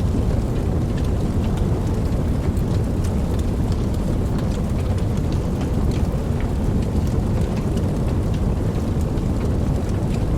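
Steady rain: a constant deep rush with many separate drops ticking throughout.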